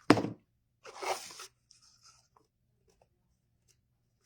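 Ribbon and tools being handled at a work table: a sharp tap right at the start, then a short crinkly rustle about a second in.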